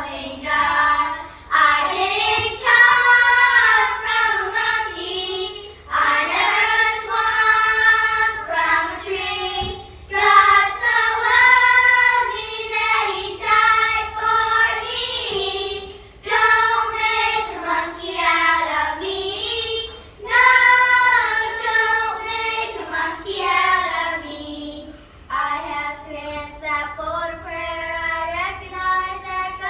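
A group of second- and third-grade children singing together in unison, in phrases of a few seconds with short breaks between them.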